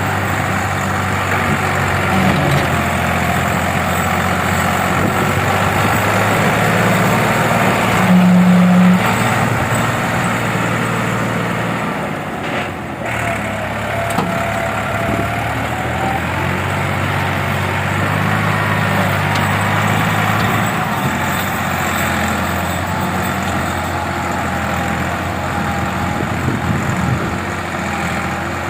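Tractor engine running steadily under power, briefly louder about eight seconds in.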